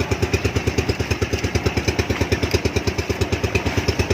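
A small engine running steadily at a rapid, even chug of about a dozen pulses a second.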